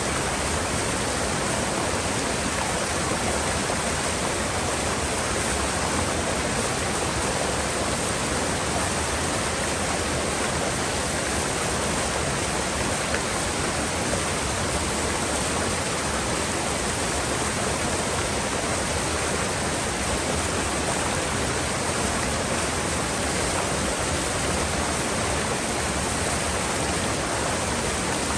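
Mountain river water rushing steadily through a gorge.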